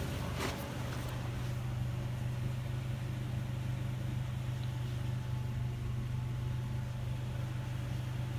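2000 Tracker engine idling steadily after a restart, an engine with a lifter tick.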